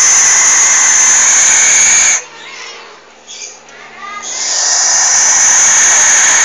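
An owl giving long, loud hissing screeches, twice: the first breaks off about two seconds in, and the second starts a little after four seconds.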